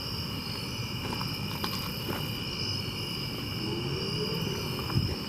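Steady chorus of crickets, a shrill trill held at two pitches, over low rumbling. A short thump comes near the end.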